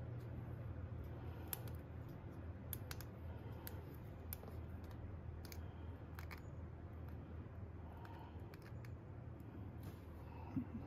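Scattered faint clicks and light taps of small airsoft gun parts being handled and adjusted by hand, over a steady low hum.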